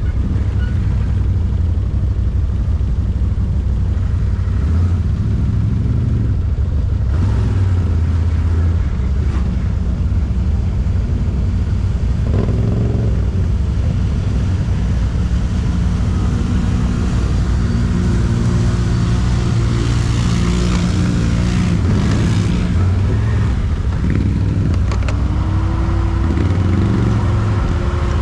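ATV (quad bike) engine running as it is ridden, loud and continuous, its note shifting up and down with the throttle.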